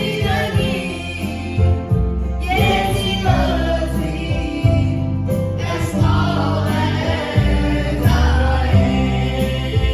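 Gospel group singing a song with several voices, backed by piano and guitar.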